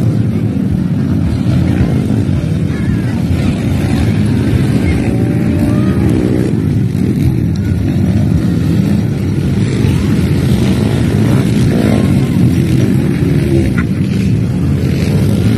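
Motocross dirt bike engines running, a loud, steady mix.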